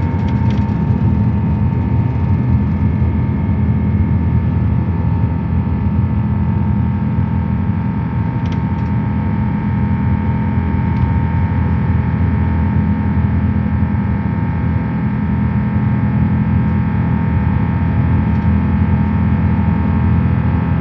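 Airbus A350-1000 cabin noise during the climb after takeoff: a steady, loud roar from its Rolls-Royce Trent XWB engines and the airflow, with several steady whining tones over it and a few faint ticks.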